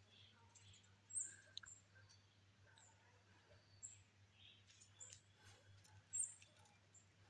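Near silence with faint, high, short bird chirps scattered through it, the two loudest about a second in and about six seconds in.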